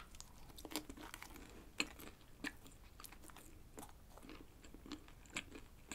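Close-miked chewing of a bite of mentaiko (pollock roe) baguette whose crust has gone hard. Faint, scattered crunches and crackles sound as the bread is chewed.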